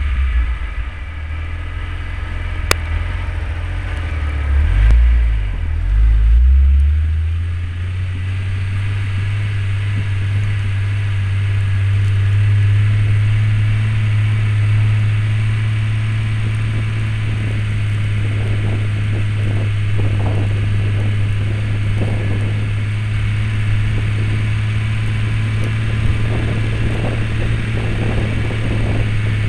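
Jeep Grand Cherokee engine running while plowing deep snow: a steady low drone, swelling louder for a couple of seconds near the start, with faint scraping later on.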